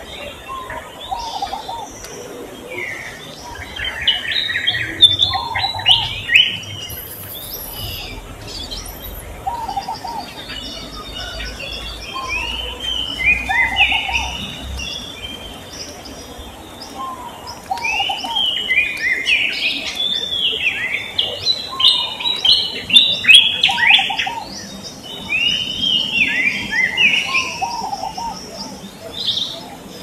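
Songbirds chirping: clusters of quick, high, arched chirps come and go in bursts of several seconds, over a lower call that recurs every few seconds.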